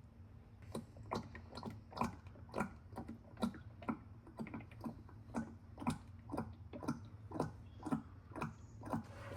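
Engine oil glugging out of a bottle into a funnel, in regular glugs about two a second.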